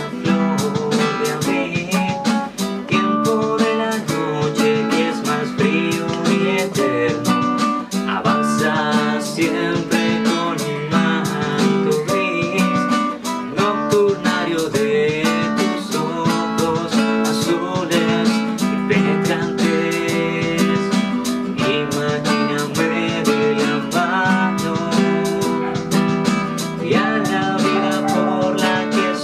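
Acoustic guitar music, strummed and plucked to a steady beat.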